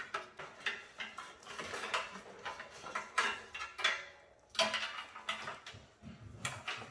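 Power supply cables and their plastic connectors being unplugged and pulled out of a desktop PC case: a run of irregular clicks and rattles, the loudest a few sharp clacks around the middle.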